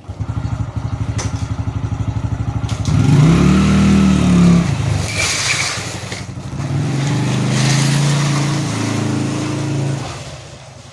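Small motorcycle engine running with a fast, even putter, revved about three seconds in so its pitch rises and falls, then running steadily again before dying away near the end.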